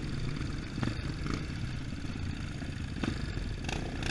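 Trail motorcycle engine running steadily at low revs, with a few light clicks over it.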